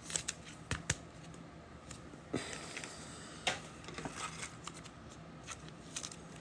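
Trading cards being handled and flipped through: scattered faint flicks and clicks of card stock, with a short rustle about two and a half seconds in.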